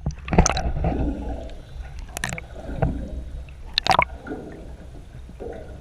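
Water sloshing with three sharp splashes, a little under two seconds apart, easing to a quieter wash near the end.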